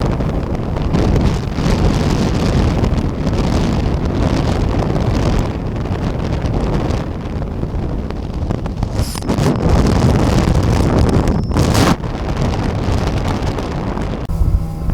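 Glastron CVX-20 speedboat running flat out on its 225 hp outboard at about 5500 rpm: wind buffeting the microphone and rushing water cover the engine. The engine's tone comes through more clearly near the end.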